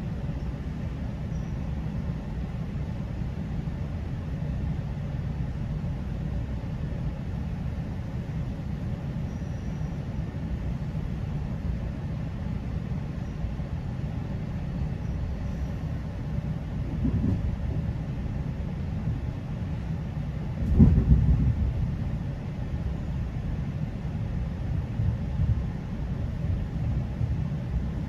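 GO Transit commuter train running along the line, a steady low rumble, with a single louder thump about 21 seconds in.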